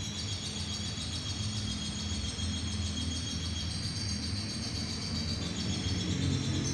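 Lovebird singing a long continuous high trill, over a steady low background.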